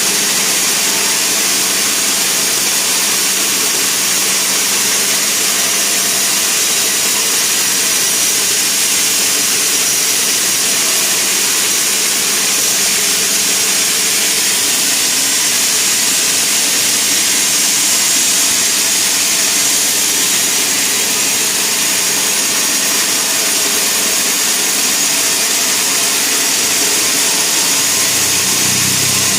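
Sawmill saw running and cutting wood, a loud steady noise with no breaks.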